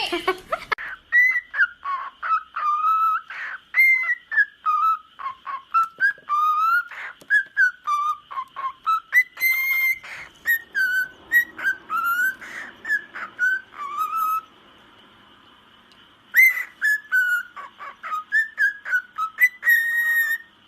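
Cockatiel whistling a long run of short sliding notes that rise and fall, with a pause of about two seconds near the end before it starts again.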